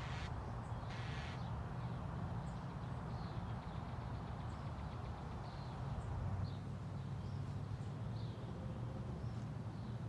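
Wind buffeting the microphone as a steady low rumble, with two short harsh, rasping bird calls in the first second or so and faint high chirps from birds scattered through the rest.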